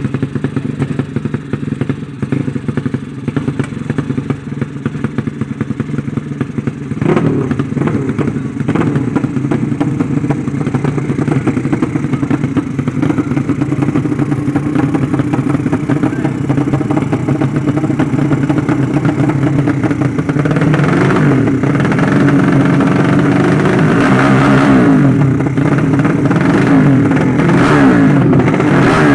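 Underbone drag-racing motorcycle engines running and being revved, getting louder about seven seconds in; in the last several seconds two engines rev at once, their pitches rising and falling against each other.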